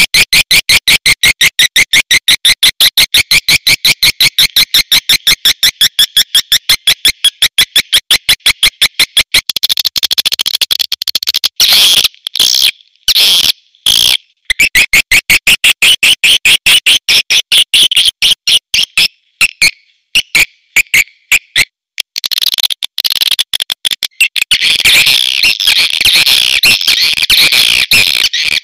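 Recorded calls of swiftlets (walet), the kind of call track played to draw swiftlets into a nesting house. It opens with a fast, evenly spaced run of sharp, high chirps, turns to denser, uneven twittering broken by short gaps about ten seconds in, and becomes a continuous chatter near the end.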